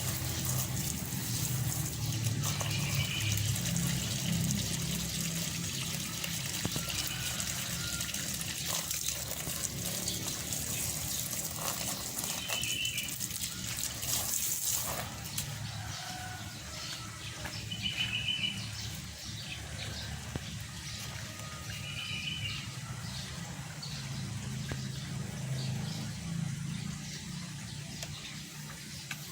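Water hissing and splashing steadily as a caged white-eye is doused, stopping about halfway through, with short high chirps every few seconds.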